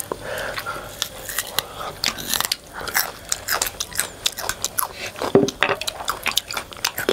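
Crunching and chewing of a crispy fried chicken drumstick: an irregular run of sharp crackles from the breaded skin being bitten and chewed.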